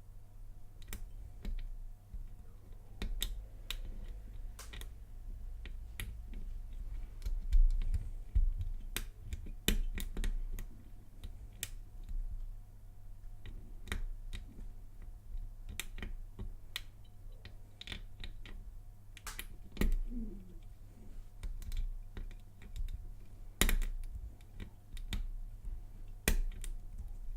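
Lock pick clicking against the pin tumblers of a laminated Lockwood padlock during single pin picking: many small, irregular sharp clicks with a few dull knocks, over a steady low hum. With the heavy core spring under tension the pins click but the core does not give.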